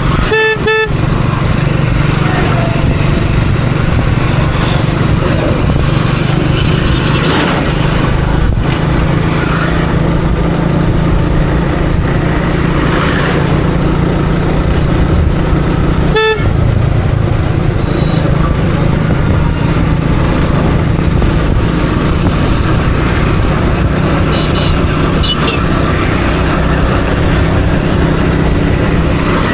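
Motorcycle engine running steadily while riding through street traffic. A vehicle horn toots twice in quick succession about half a second in, and once more around the middle.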